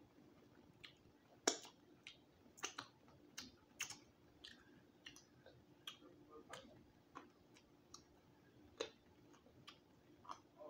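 Close-up mouth sounds of eating a roasted quail drumstick: soft, scattered smacks and clicks of chewing and of sucking meat off the small bone, with one sharper click about one and a half seconds in.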